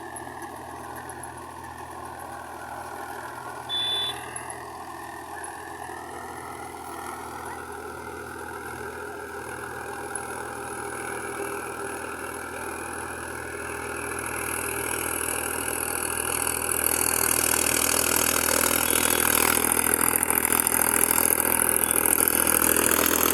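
Mahindra tractor's diesel engine running steadily, growing louder about two-thirds of the way through. There is a short high-pitched beep about four seconds in.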